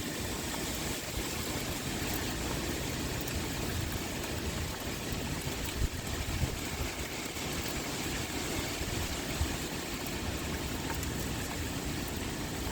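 Steady pouring rain with wind blowing, a continuous hiss over a low rumble, broken by a few brief louder patters about halfway through.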